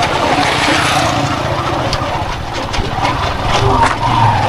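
Vehicle in motion on a road: steady engine and road noise with a low rumble, and a few short clicks in the second half.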